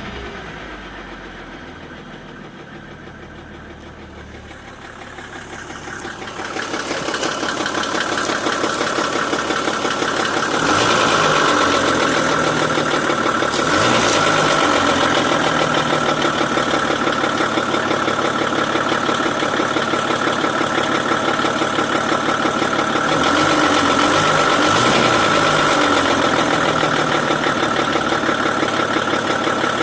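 Mercedes-Benz W124's OM606 inline-six diesel engine running with a knock from the rollers of the injection pump's timing advance coupling. The engine gets louder about six seconds in, and its speed changes a couple of times.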